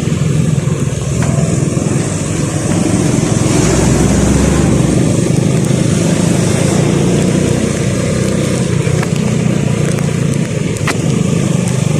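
Road vehicle on the move: steady engine and road noise with no pauses, and a couple of faint clicks near the end.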